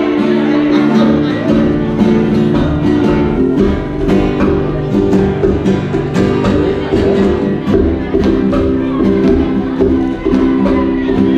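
Live music with strummed acoustic guitar playing a steady rhythm of chords.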